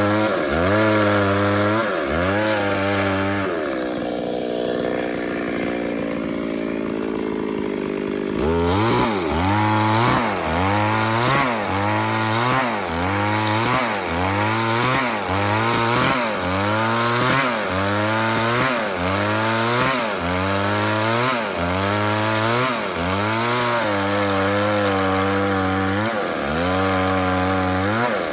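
Two-stroke chainsaw cutting into wood at full throttle, its engine pitch dipping and recovering about once a second as the chain bites and clears. From about four seconds in, the engine bogs down to a lower, slowly sinking pitch under heavy load, then revs back up about eight seconds in.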